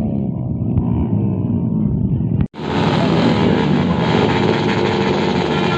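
Many motorcycles with open, unmuffled 'brong' exhausts running and revving together in a loud, continuous din. The sound cuts off abruptly about two and a half seconds in and comes straight back brighter and fuller.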